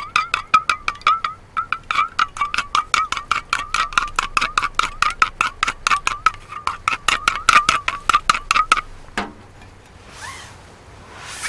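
Rapid, evenly paced metallic clinking, about seven light strikes a second with a short ring to each, stopping about nine seconds in with a single thump, followed by two brief rustles.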